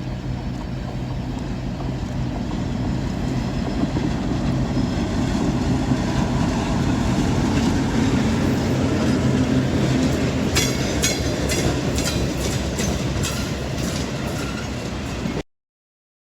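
EMD GP9 diesel locomotive running under load, its steady engine hum growing louder as the train comes closer. Past the middle, a quick series of wheel clicks over rail joints, two or three a second, rides on top before the sound cuts off suddenly.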